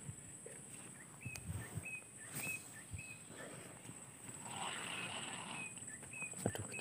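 A small bird calls over and over with short, hooked chirps, about two a second, in two runs with a brief pause between them. A steady high whine runs beneath, with a few faint knocks.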